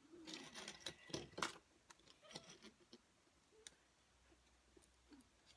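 Near silence with a few faint clicks and crackles, most of them in the first second and a half and a few scattered later.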